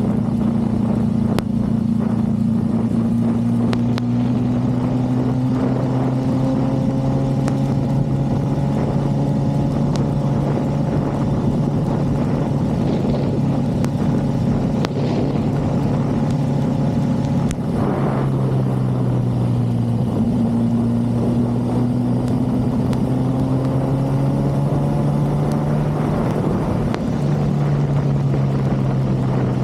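Motorcycle engine running at low, steady revs during a slow ride. Its pitch eases up and down, with a shift about two-thirds of the way through.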